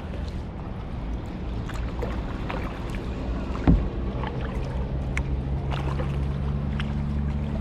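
Kayak paddling: water splashing and dripping off the paddle blades, with one sharp knock just before halfway, typical of the paddle striking the kayak's hull. A low steady rumble runs underneath, and a low hum joins it about halfway through.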